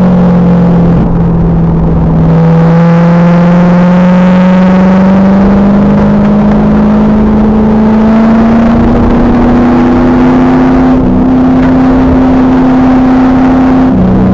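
2000 Pontiac Trans Am Firehawk's stock LS1 V8 through its SLP exhaust, pulling hard on track. Its pitch dips with a gear change about a second in, then climbs steadily for about twelve seconds before dropping again with the next shift near the end. The recording is loud and distorted.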